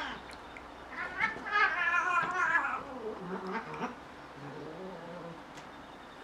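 Cat meowing: one long, wavering meow starting about a second in, followed by a fainter, lower call.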